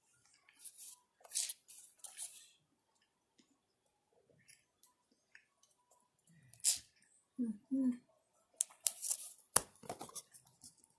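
Close-up chewing and mouth noises as a chicken wrap is eaten, heard as several short crisp crackling bursts, with a sharp click a little before the end.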